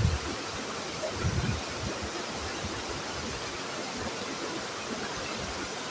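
Waterfall rushing: a steady, even roar of falling water, with a couple of low rumbles in the first second and a half.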